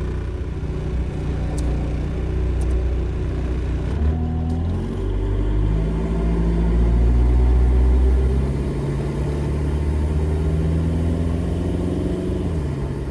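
Jeep Wrangler's swapped-in 1.9 L four-cylinder VW TDI diesel (BEW) pulling the vehicle on the road under acceleration. The engine note steps at a few points as the AW4 automatic changes gear, and it is loudest in the middle.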